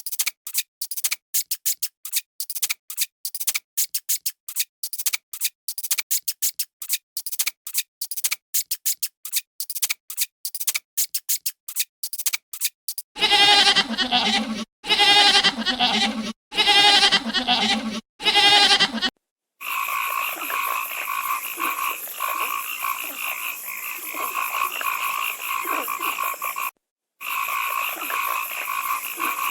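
Three animal sounds in turn: a fast run of clicks lasting about thirteen seconds, then four loud, wavering calls of about a second and a half each, then a steady chorus of high calls for the last ten seconds.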